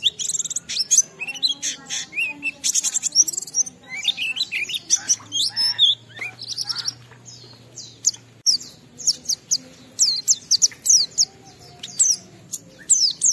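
White-eye (pleci) singing a fast, varied song of high chirps and quick rising and falling whistles, broken by short pauses.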